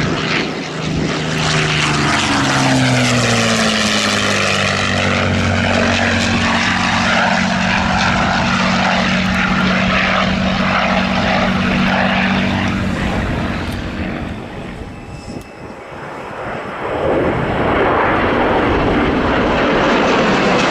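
Propeller aircraft flying past low, its engine tone dropping in pitch as it passes, then holding a steady drone. About fifteen seconds in the sound dips briefly, and a louder rushing engine noise without a clear tone takes over.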